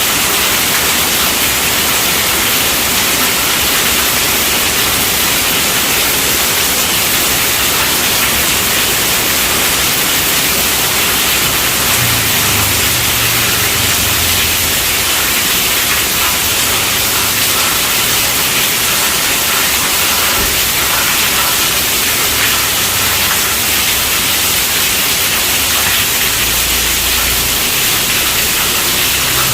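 Steady, heavy rainfall: a dense, even hiss with no distinct drops or breaks.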